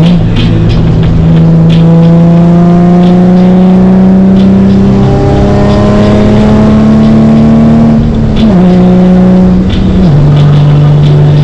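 Nissan 350Z's V6 engine pulling under load, its note rising steadily for about eight seconds, then dropping sharply with a gear change and dropping again about ten seconds in.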